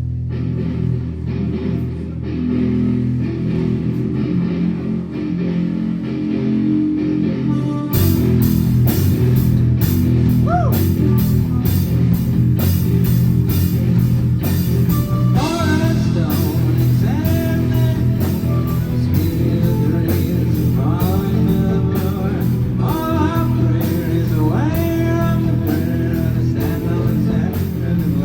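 Live rock band playing: guitar carries the opening, then the drum kit and full band come in sharply about eight seconds in. A singing voice joins from about halfway through.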